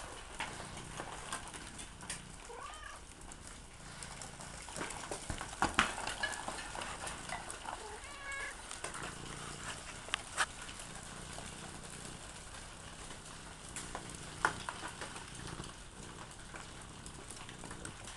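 Melting ice dropping off ice-coated trees: scattered clicks, taps and patters of falling ice and drips. A few short high animal calls come in, about 2.5 seconds in and again around 8 seconds.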